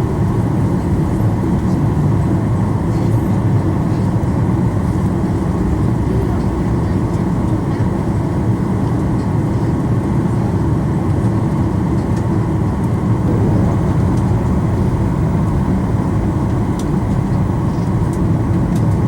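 Steady low rumble of an airliner cabin, with the engines and air system running.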